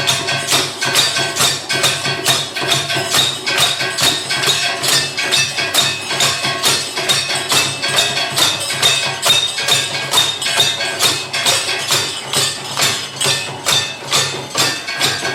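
Live ensemble music driven by fast, even percussion strikes, about four a second, with ringing pitched tones over a steady low note.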